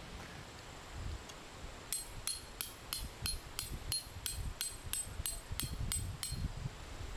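A metal tent stake being hammered into the ground: about fourteen evenly spaced ringing strikes, roughly three a second.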